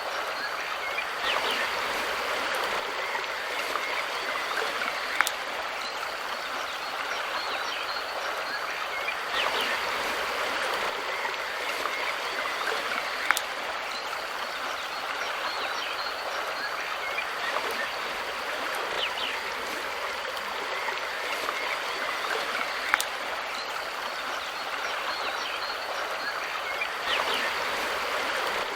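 River water flowing and rushing steadily, with three short sharp clicks standing out over it about five, thirteen and twenty-three seconds in.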